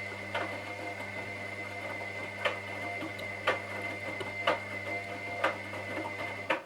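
Washing machine drum motor running with a steady hum and a thin high whine, a sharp click about once a second as it turns. It cuts off suddenly near the end, with a couple of clicks just after, the usual start-and-stop tumbling of a wash cycle.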